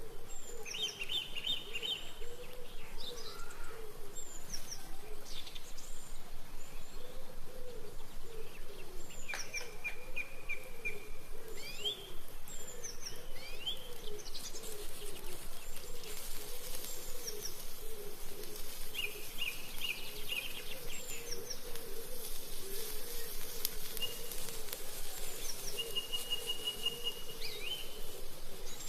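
Birdsong: a low hooting call repeated over and over, a little faster than once a second, under scattered higher chirps, trills and short whistles.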